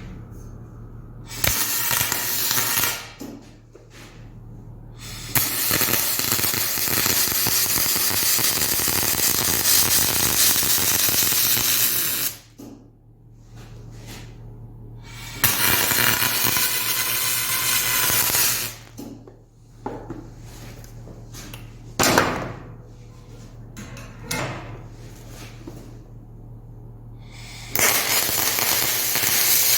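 Aluminum MIG welding with a spool gun: about five bursts of steady arc hiss and crackle, from a second to about seven seconds long, with short pauses between welds, over a constant low electrical hum.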